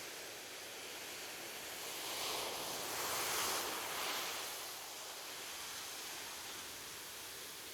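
Ocean surf on a beach: a steady wash of waves, with one wave building to a louder rush about three seconds in and then fading back.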